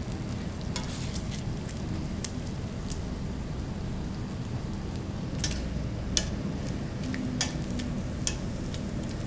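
Food frying on a hot griddle: a steady sizzle, with scattered sharp clicks and taps through it.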